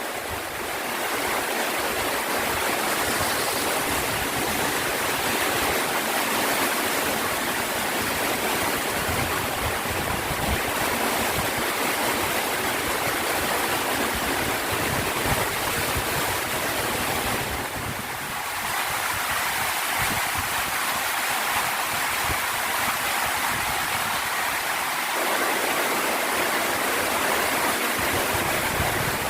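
Heavy rain falling hard in gusty wind, a loud steady downpour hiss with a short lull about two-thirds of the way through.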